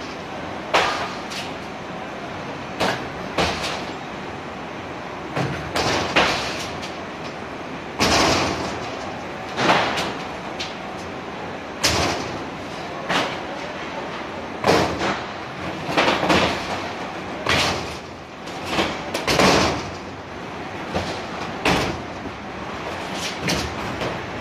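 Suitcases being thrown and landing hard, a bang or thud every second or two over a steady hum of airport machinery.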